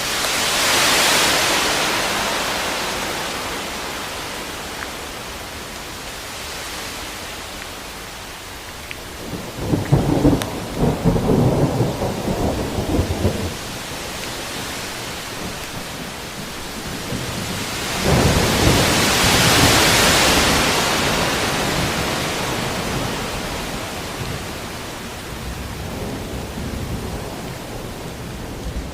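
Thunderstorm: steady rain hiss that swells and fades twice, with a crackling, rumbling thunderclap about ten seconds in and a second low rumble of thunder about eighteen seconds in.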